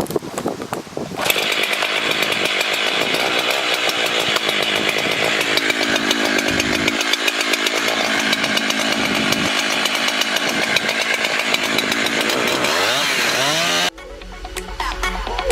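Chainsaw running at full throttle as it cuts into a tree trunk, the pitch rising just before the sound cuts off abruptly near the end and electronic dance music takes over.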